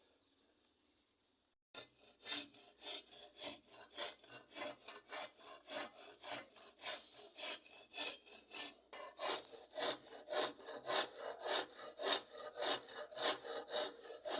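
Steady back-and-forth scraping strokes of a hand tool working a surface, about two to three strokes a second, starting about two seconds in.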